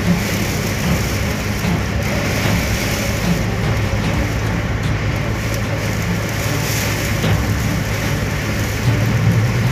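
Sandstorm wind with blowing sand, a steady noisy rush, with a constant low hum underneath.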